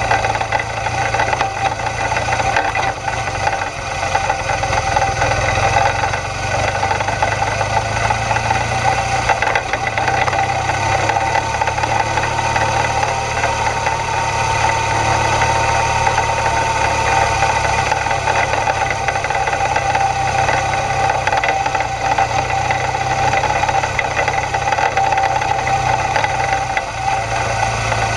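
BMW GS adventure motorcycle's twin-cylinder engine running steadily at low speed on a loose gravel track, its note lifting slightly midway.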